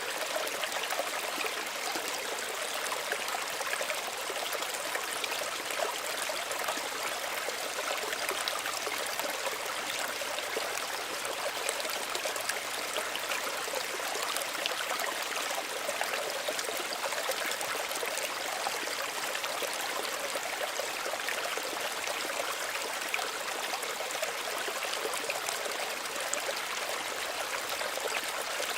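Small stream of running water, flowing and trickling steadily with fine splashy detail.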